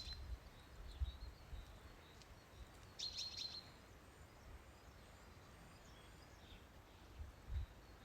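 Small songbirds chirping faintly, with a quick run of high chirps about three seconds in, over a faint low rumble.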